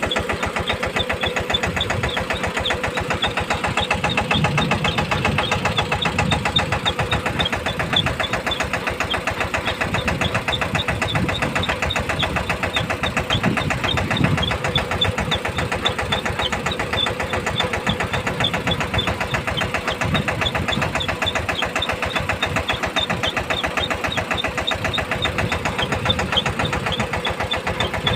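Massey Ferguson 5118 18 HP tractor's diesel engine running steadily under load while driving a submersible pump, with a rapid, even beat.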